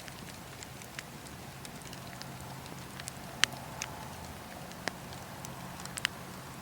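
Campfire burning: wood crackling and popping over a steady soft hiss, with a few sharper pops, the loudest about three and a half seconds in and near the end.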